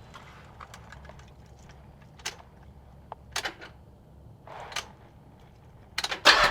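Scattered footsteps and knocks of a person moving around the car, with a louder clatter near the end, over a faint low hum.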